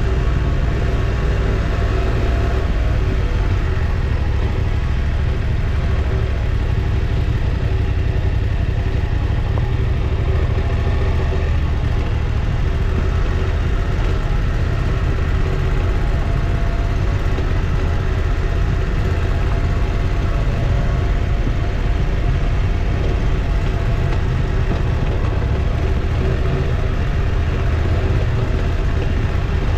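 Motorcycle engine running steadily while riding, over a constant low rumble.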